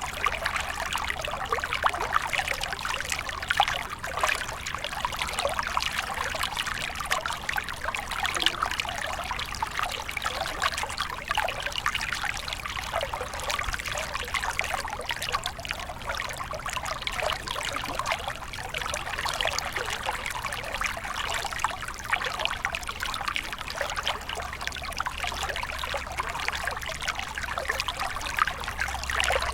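Small stream trickling and splashing over stones, a steady burbling with many small bright splashes.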